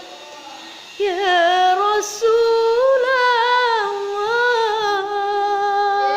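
A young woman singing unaccompanied, a slow Arabic devotional melody with long held notes ornamented by wavering turns. She starts after about a second of quiet and takes a quick breath about two seconds in.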